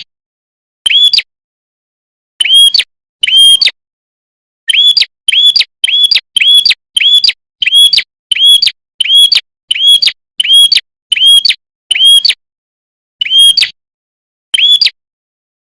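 Prenjak songbird giving a series of loud, sharp, identical chip notes, each a short arched whistle, at first about a second apart, then a quick run of about two a second, then slowing again near the end. It is a lure call meant to provoke other prenjak into answering.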